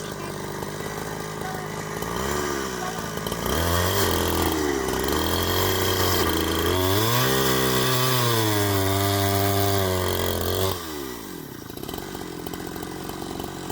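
Two-stroke chainsaw ticking over, then throttled up for about seven seconds, its pitch sagging and climbing again several times. It then drops back to idle.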